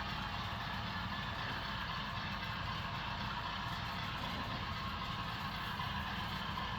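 HO scale model Sharknose RF-16 diesel locomotive running with its train, a steady mechanical rumble and hum with no change in pace.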